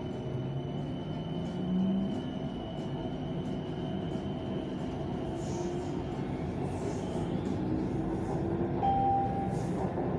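BTS Skytrain electric train accelerating out of a station, heard from inside the car: a steady rumble of wheels and running gear, with a high whine from the drive that holds steady, then fades about halfway through.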